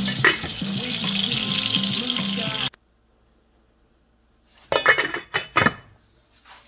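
Food sizzling as it fries in a pan, under background music; both cut off abruptly about two and a half seconds in. After a short silence, a quick run of a few sharp clacks.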